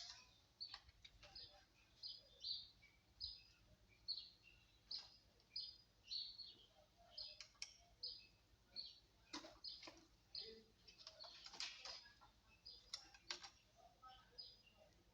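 A small bird chirping over and over, faint, about one to two short high chirps a second, with a few soft clicks in the second half.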